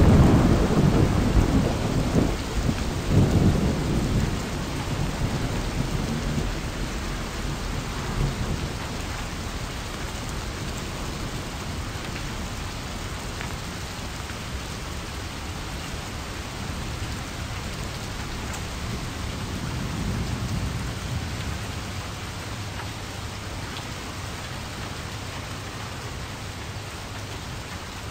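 Steady rain with a low roll of thunder over the first few seconds that fades away.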